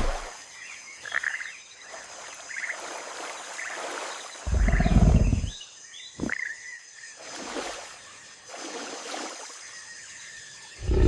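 Animal calls: a loud low call about five seconds in and another near the end, with fainter, higher sounds between them.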